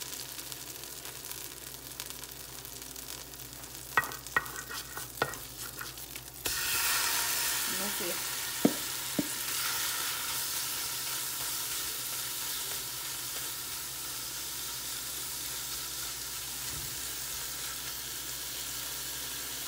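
Butter sizzling softly in a hot pan, with a few knocks about four to five seconds in. Then marinated shrimp go into the butter and the sizzle jumps suddenly louder and hissier, easing slowly as a wooden spoon stirs them, tapping the pan twice.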